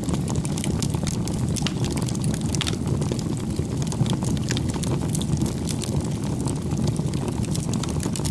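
Wood fire burning: a steady low rumble with frequent sharp crackles and pops from the burning wood.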